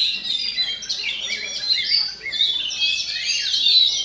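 Oriental magpie-robin (kacer) singing a fast, unbroken stream of varied chirps and whistles.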